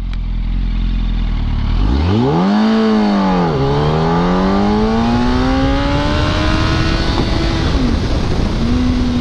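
Yamaha R1 sport bike's inline-four engine revving hard under acceleration, its pitch climbing from about two seconds in. It drops with an upshift partway through, climbs again and shifts once more near the end before holding steady, with a constant rush of wind noise underneath.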